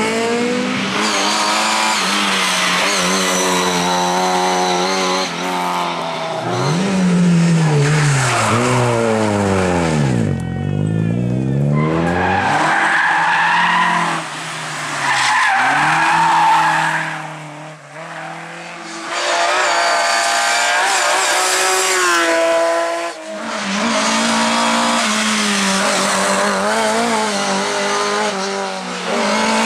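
Rally cars driven flat out: engines revving up and falling back through gear changes, one car passing with its pitch sweeping down about ten seconds in, and tyres squealing and skidding through the middle of the stretch.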